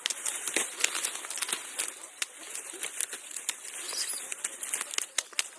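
Dry corn plants rustling and crackling, with many sharp, irregular snaps.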